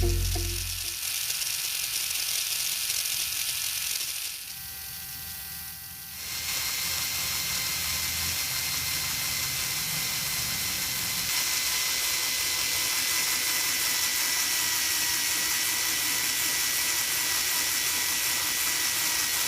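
Small electric motor of a DIY model tractor running steadily with a high whine, dropping quieter from about four seconds in and picking up again about two seconds later.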